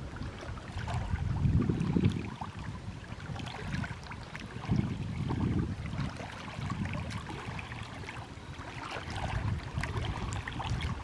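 Water moving and gurgling around rocks, in low swells that come and go every few seconds, with faint scattered ticks and splashes.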